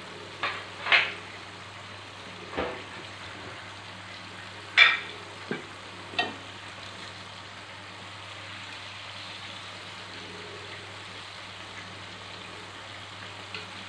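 Breaded chicken pieces shallow-frying in hot oil in a pan, a steady sizzle. In the first half come about half a dozen short clinks and knocks of kitchen utensils, and a steady low hum runs underneath.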